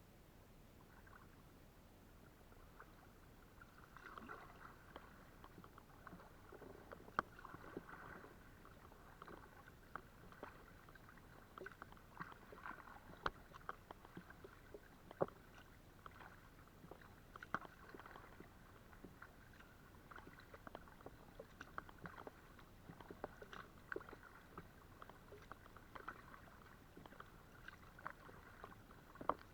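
Kayak being paddled, faint: irregular small splashes and drips of water from the paddle, with sharp little ticks and knocks. The paddling starts about four seconds in.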